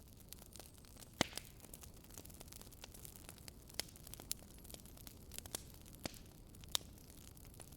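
Wood fire burning in a fireplace, crackling with irregular sharp pops over a low steady hiss. The loudest pops come about a second in and near the end.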